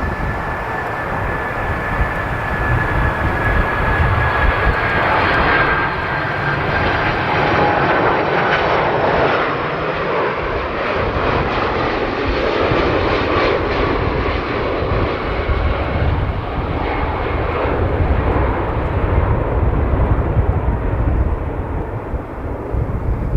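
Boeing jetliner's engines running as it comes in to land: a dense jet noise with a high whine that slowly falls in pitch over the first several seconds.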